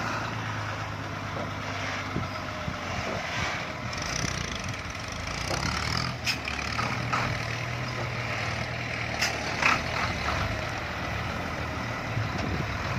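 Hino F18 ten-wheel truck's diesel engine running steadily under load as the heavily loaded sugarcane truck moves off. A few brief sharp noises stand out about six seconds in and again twice around nine to ten seconds in.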